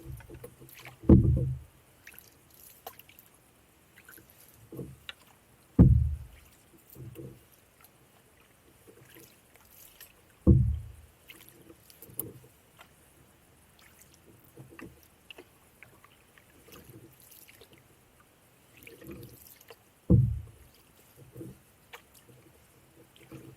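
Canoe being paddled: four strong low thumps, about a second, six, ten and twenty seconds in, with smaller knocks and water sounds between.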